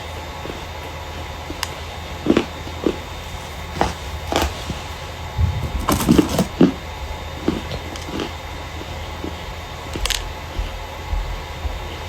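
Starch being handled close to the microphone, giving short crunches at irregular intervals, about a dozen in all, over a low steady hum.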